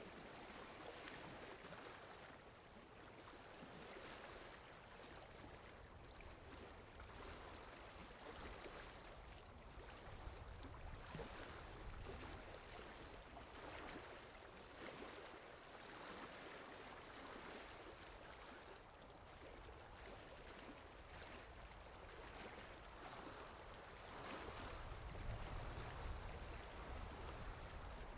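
Steady rainfall, a soft even patter that swells gently now and then, with a low rumble rising near the end.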